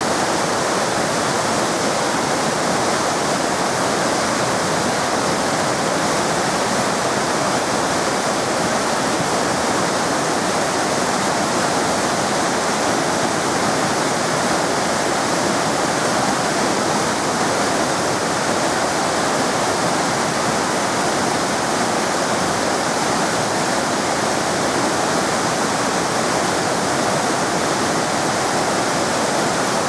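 Waterfall: a steady, loud rush of falling water with no change or break.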